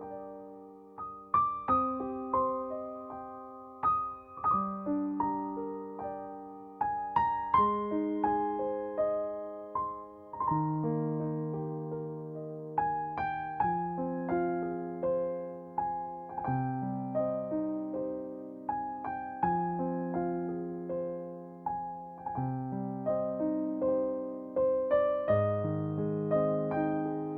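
Slow, gentle solo piano music: single notes and soft chords struck one after another, each ringing out and fading.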